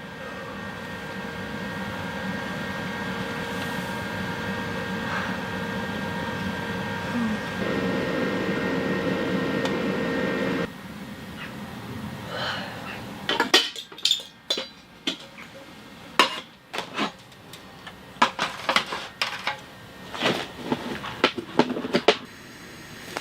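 Cooking sounds. A steady rushing noise with a faint hum ends abruptly about ten seconds in. Irregular clinks and knocks of pots and utensils follow, some in quick runs.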